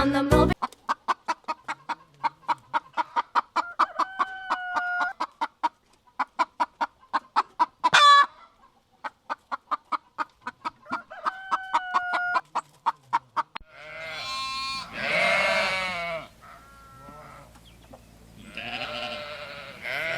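A hen clucking in a quick, steady run, about four clucks a second, with a few longer drawn-out notes. About fourteen seconds in it gives way to a sheep bleating twice in long, wavering bleats.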